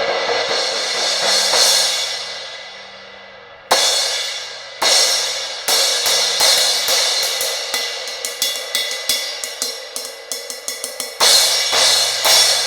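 Zildjian 17-inch K Custom Hybrid crash cymbal, its crack repaired by drilling a hole, being played for a sound test. A ringing crash fades out, then come single hits about a second apart, a run of quick strokes several a second, and another loud crash near the end.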